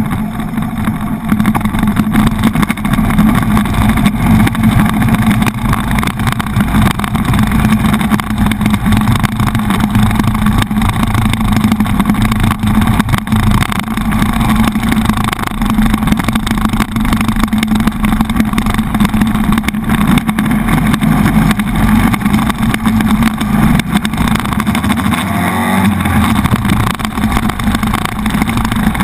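Buell XB9SX motorcycle engine running while riding through city traffic, heard from a handlebar-mounted action camera. The engine note changes briefly about 25 seconds in.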